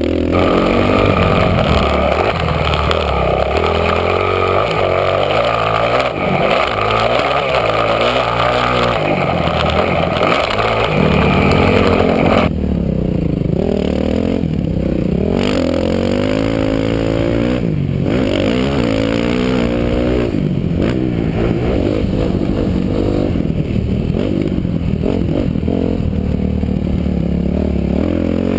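Motocross dirt bike engine being ridden hard, its pitch rising and falling over and over as the throttle opens and closes through the gears, heard through a helmet-mounted camera's microphone. A steady hiss over the engine for the first twelve seconds or so cuts off suddenly.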